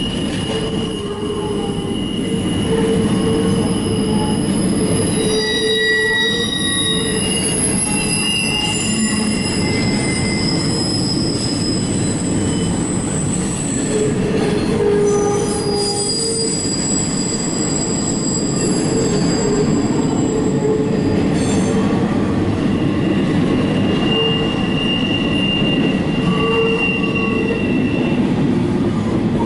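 CSX intermodal freight train's double-stack container well cars rolling past in a steady rumble of wheels on rail. High-pitched wheel squeals come and go throughout.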